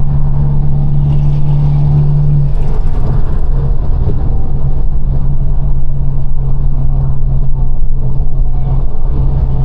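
Exhaust of a straight-piped, Stage 2 tuned BMW 428i droning steadily while the car drives, with a brief waver about three seconds in.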